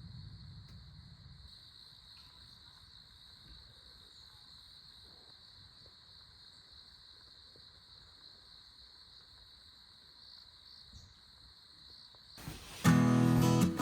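Faint, steady high-pitched chorus of crickets chirping, with a low rumble that fades out in the first second or two. Strummed acoustic guitar music cuts in near the end.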